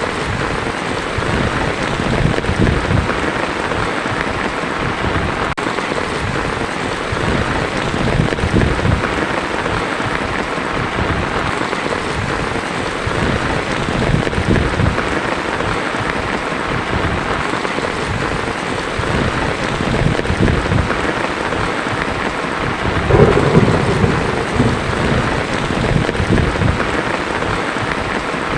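Heavy rain falling steadily on a tin roof, with low rolls of thunder; the loudest thunder rumble comes a few seconds before the end.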